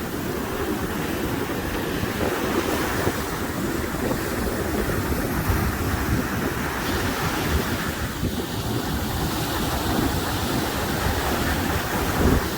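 Sea waves washing in steadily, with wind buffeting the microphone in a low rumble.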